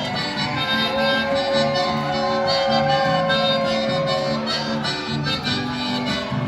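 Accordion playing the instrumental introduction of a chamamé over a steady rhythmic bass accompaniment, with one long held note through the first few seconds.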